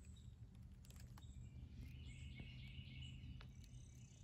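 Near silence: a bird sings faintly for about a second and a half in the middle, over a low steady rumble.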